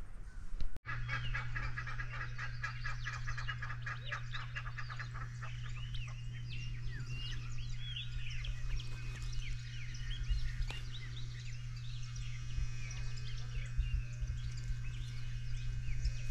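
Birds chirping and calling, opening with a fast run of repeated calls for the first few seconds, then many short scattered chirps. A steady low hum runs underneath.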